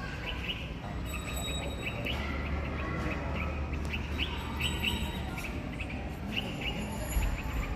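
A bird giving repeated short, high 'keech keech' calls, often in quick pairs or small clusters.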